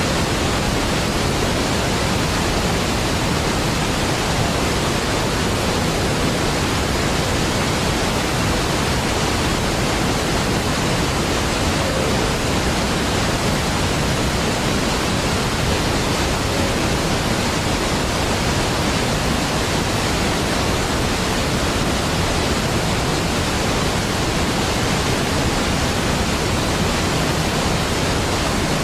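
Large waterfall, Niagara Falls, a steady deep rush of falling water, even and unchanging throughout.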